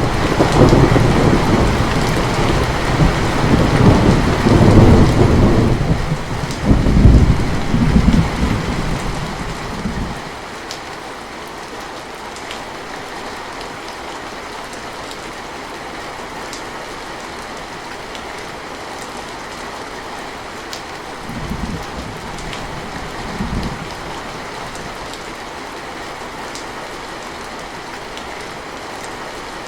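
Steady heavy rain with a long roll of thunder that rumbles loudly for the first ten seconds or so, then dies away. Two brief, fainter thunder rumbles follow a little past the middle, over the continuing rain.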